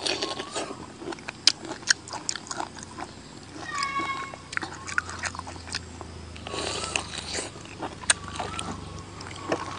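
Wet chewing and lip-smacking, with sharp mouth clicks, as raw river prawn meat is bitten and eaten. Several short high-pitched animal calls come through, the longest about four seconds in.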